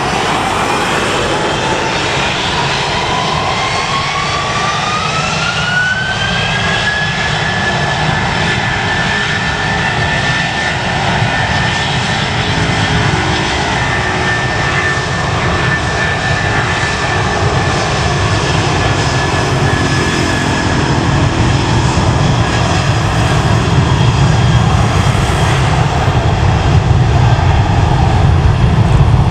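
Airbus A330-323's Rolls-Royce Trent 700 jet engines spooling up for takeoff: a whine rises over the first several seconds, then holds steady at takeoff thrust over a heavy rumble that grows louder near the end.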